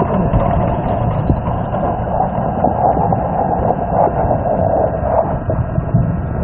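Rushing river water picked up by a smartphone microphone held underwater: a steady, muffled rush.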